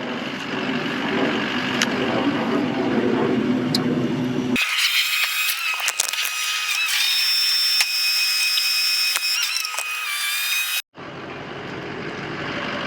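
T-38 Talon twin-jet trainer flying over, a broad rushing noise. About four and a half seconds in, the sound abruptly changes to a thinner one with steady high whining tones and no low rumble. That lasts about six seconds, cuts off suddenly, and the rushing noise comes back.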